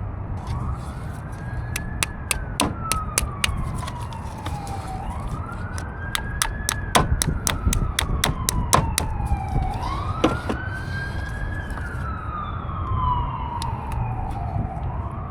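An emergency vehicle's wail siren, its pitch rising quickly and then falling slowly, repeating about every five seconds over a low traffic rumble. Many sharp small clicks and taps from hands working a pin back into a plastic wiring connector.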